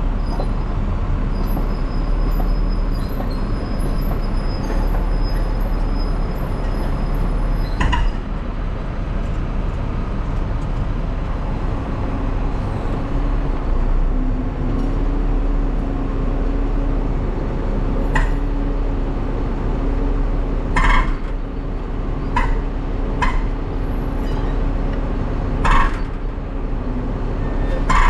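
Roll-off truck engine running with its PTO hydraulic hoist engaged, dragging a dumpster up onto the truck's frame rails: a steady drone with a held hum. Sharp metal clanks ring out about eight seconds in, again near eighteen seconds, and several more in the last seven seconds.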